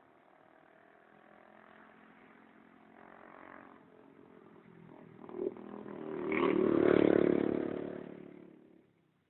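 An engine passing by, growing louder to a peak about seven seconds in and then fading away.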